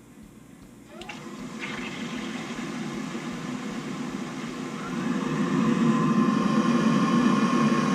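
Navien combi boiler starting up after being switched back on: a motor spins up with a short rising whine about a second in. It grows louder around five seconds in and settles into a steady running hum with a high whine.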